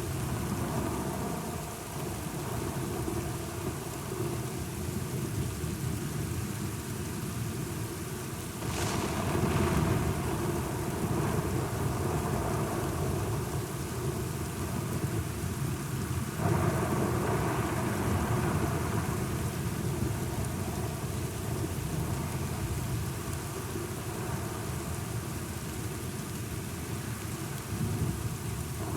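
Thunderstorm: steady rain with two thunderclaps, the first sudden and sharp about nine seconds in, the second around sixteen seconds, each rolling away over a few seconds.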